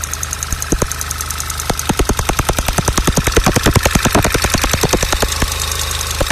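Golf VI GTI's 2.0 TSI four-cylinder engine running with the fine, even ticking of its direct injection. Louder, irregular ticks sound between these, sparse at first, coming thick and fast from about two seconds in and thinning near the end. This extra ticking is not the normal TSI injector ticking, and its cause is unknown.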